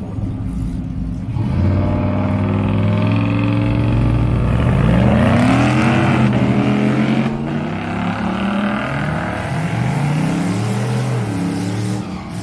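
V8-swapped Mazda RX-2 held at the drag-strip starting line, then about a second and a half in launching at full throttle. The engine pitch climbs and drops back at each gear change as the car pulls away down the track.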